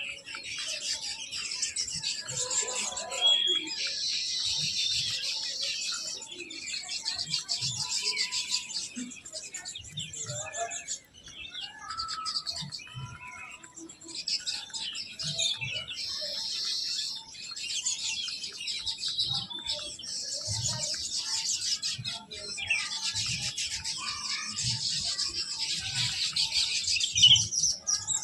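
A flock of small birds chirping and chattering almost without a break, with many overlapping high-pitched calls and a few brief lulls.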